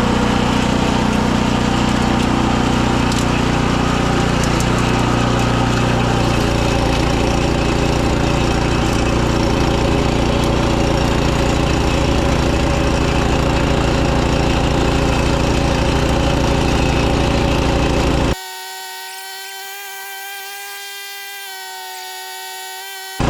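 Walk-behind snowblower's small engine running steadily under load. About 18 seconds in it cuts off abruptly to a quieter, steady whine made of several even tones, and the engine sound returns just as suddenly near the end.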